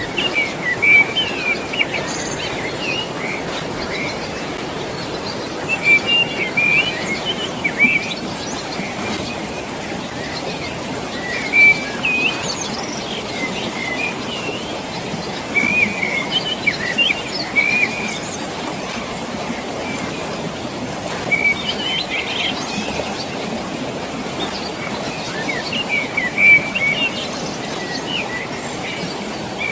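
Steady rushing water from the valley below, with songbirds chirping and calling in short bursts every few seconds.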